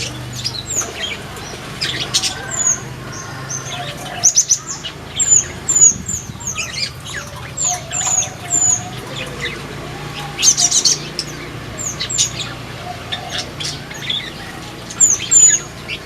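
Flamboyan birds in an aviary chirping over and over: short, high, downward-flicking chirps with scattered sharper calls and brief wing flutters, over a steady low hum.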